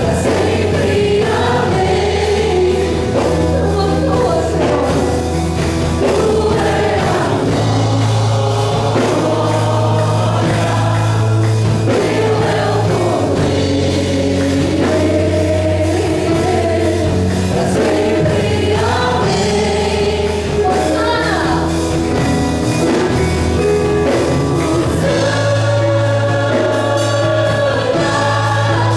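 Gospel worship music played live: several voices singing together over a band with sustained bass notes and a steady drum beat.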